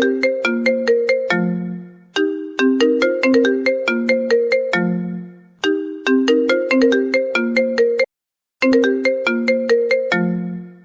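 A phone ringtone: a short melody of quick plucked-sounding notes that ends on a low held note, repeating about every three seconds. The sound cuts out briefly about eight seconds in, then the melody starts again.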